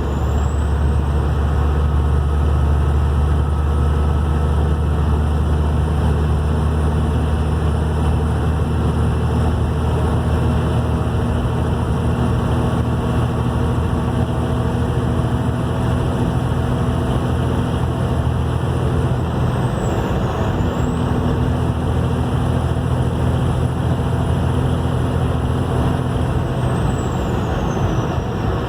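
Compound-turbocharged engine running with a steady low drone and a high, thin turbo whistle above it. The whistle dips in pitch and comes back up about two-thirds of the way through, then glides down near the end.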